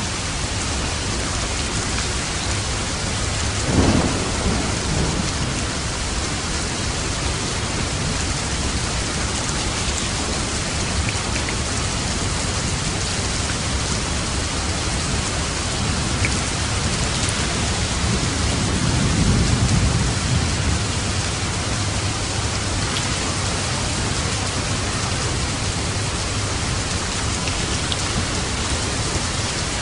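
Steady rain falling, with light thunder: a short sharp clap and rumble about four seconds in, and a longer low rumble around two-thirds of the way through.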